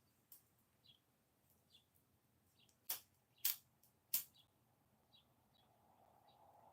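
A small bird chirping repeatedly, short high chirps about once a second. Three sharp clicks sound close together near the middle, and a faint hum comes up near the end.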